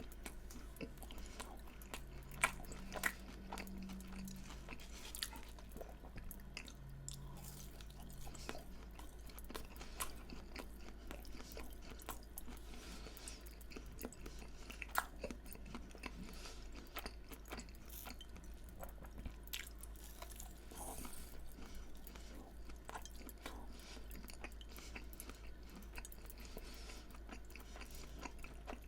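Close-miked mouth sounds of someone chewing and crunching fried food, a steady run of small crackles with a few sharper, louder crunches.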